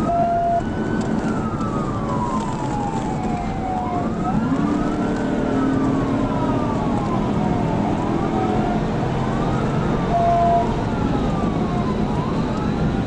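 Police cruiser siren in a slow wail, rising and falling over a few seconds at a time, over the steady road and engine noise of a car at high speed. Two short steady beeps sound, one at the start and one about ten seconds in.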